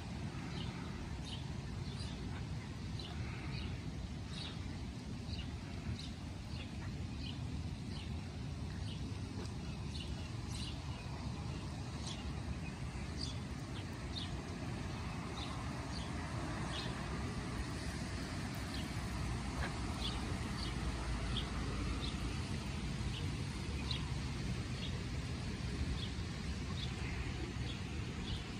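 Small birds chirping, short high chirps repeated about once or twice a second, over a steady low background rumble.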